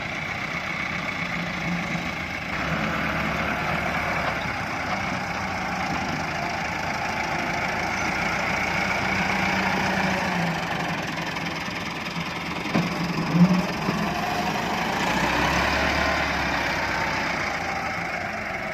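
Massey Ferguson 240 tractor's three-cylinder diesel engine running steadily, with a couple of short knocks about two-thirds of the way through.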